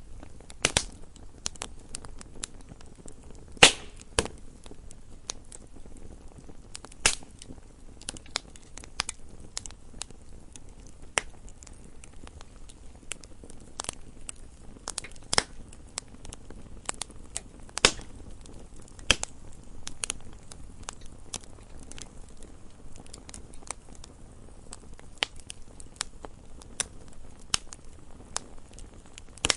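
Wood fire burning in a fireplace, crackling with irregular sharp pops and snaps over a low steady hiss, the loudest pops about four seconds in and halfway through.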